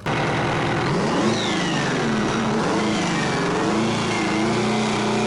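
Engine being revved, its note rising and falling a few times, then settling into a steady, higher note near the end.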